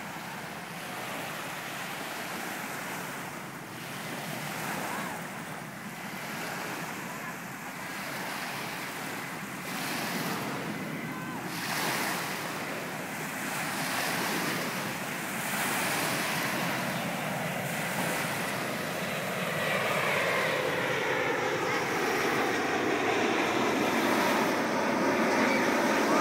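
Airbus A340 four-engine jet on approach to land. Its engine noise grows steadily louder, and in the last several seconds a sweeping, whooshing tone comes in as it draws near. Wind buffets the microphone throughout.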